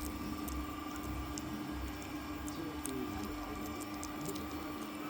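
A Maltese puppy gnawing a dog chew: irregular small clicks and ticks of teeth on the chew, over the steady hum of a vacuum cleaner running in the background.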